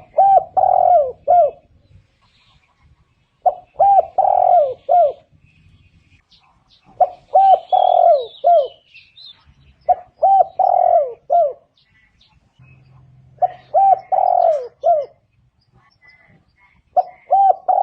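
Spotted dove cooing: a short phrase of several coo notes, repeated about every three and a half seconds, six times.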